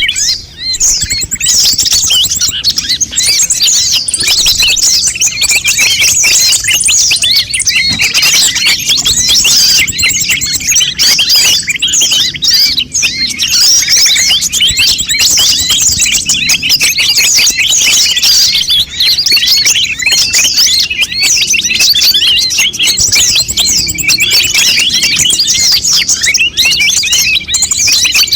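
Konin songbirds chirping and twittering busily, a dense, high-pitched stream of rapid chirps and trills with hardly a pause.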